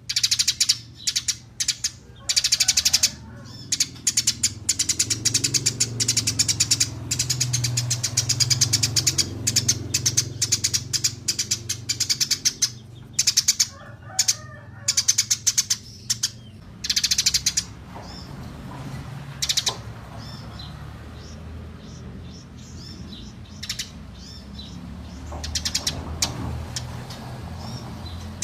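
Small songbirds' rapid high chirping and trilling: long, fast runs of sharp notes broken by short pauses, thinning to sparser, quieter calls after about 18 seconds, over a steady low hum.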